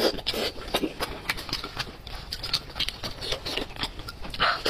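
Close-miked eating: wet chewing and lip-smacking on braised sheep's-head meat, mixed with the squelch of plastic gloves tearing the meat apart. It comes as irregular quick smacks and clicks, several a second.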